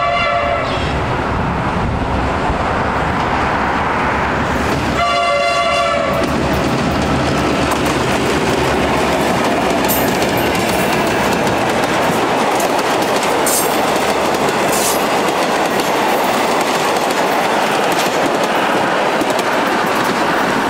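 Victorian Railways T-class diesel locomotives hauling a heritage passenger train sound their horn twice, once at the start and again about five seconds in. The train then passes close by with its engines running and its wheels clacking over the rails as the carriages roll through.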